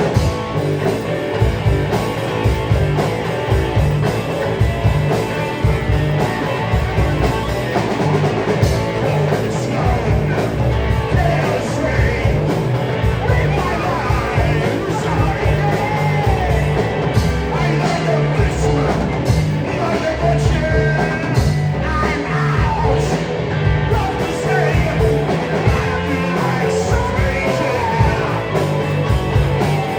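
Rock band playing live: electric guitar, bass and drums, with singing over a steady beat.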